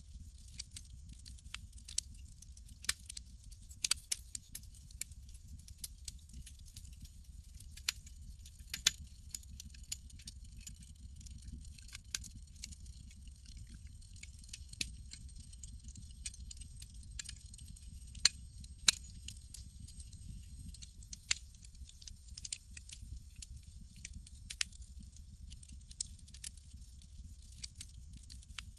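Campfire crackling: irregular sharp pops and snaps, a few much louder than the rest, over a steady low rumble and a faint high hiss.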